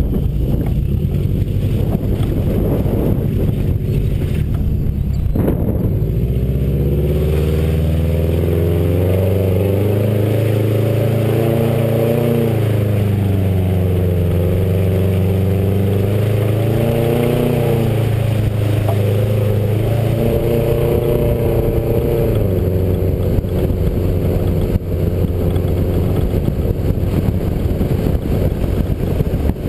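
Modified Subaru WRX's turbocharged flat-four with a catless downpipe, driven hard off-road, heard from the roof. For the first few seconds mostly wind and road rumble come through. Then the engine note rises and falls repeatedly with the throttle for about fifteen seconds, before rumble takes over again, with the roof bike rack clanking.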